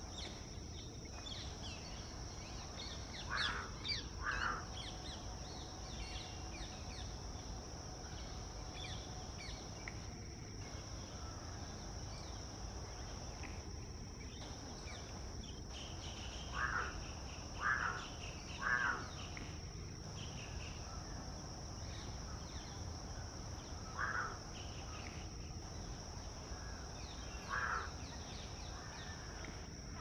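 Outdoor bird calls over a steady high insect drone: a bird gives short calls, twice in a row early on, then three about a second apart in the middle, then two single calls near the end, with faint smaller chirps around them.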